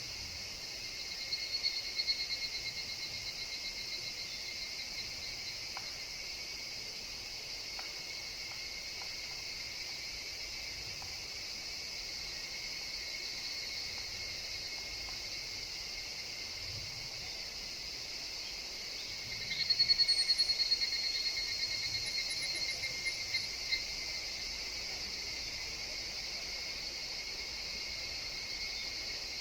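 Higurashi (evening cicadas) calling over a steady high insect chorus: a short burst of fast, pulsed trilling near the start, then a louder call of about four seconds around two-thirds of the way through that trails off in a few stuttering pulses.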